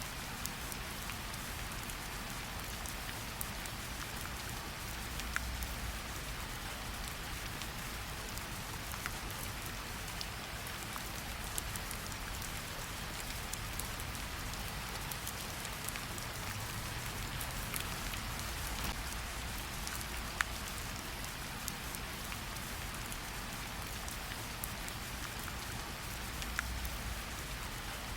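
Steady gentle rain pattering on tree leaves, with scattered louder single drops ticking through the hiss.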